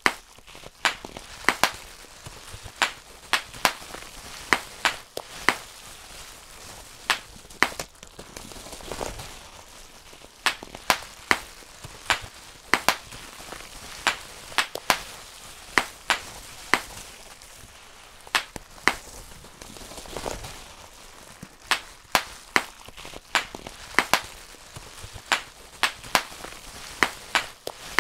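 Bubble wrap being popped one bubble at a time: sharp, irregular pops, about one or two a second, over a faint rustle.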